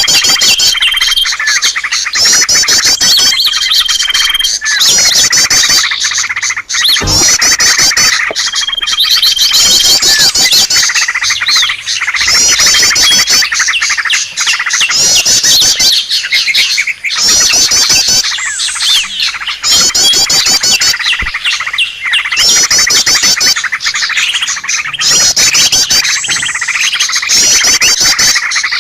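A dense mix of many small birds chirping and trilling at once: fast trills that repeat every second or two, and a few short held whistles near the start. It is a bird-lure (pikat) recording, played to draw wild birds in.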